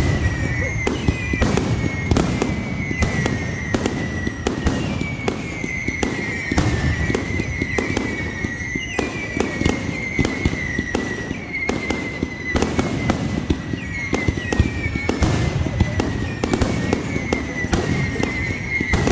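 Fireworks going off in quick succession, with many bangs and crackles. A high whistle keeps sliding up and settling back over and over.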